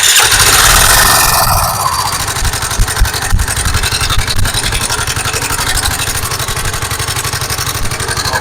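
Bajaj Pulsar AS150 single-cylinder motorcycle engine running. It is louder for the first second or so, then settles into a steady, evenly pulsing idle.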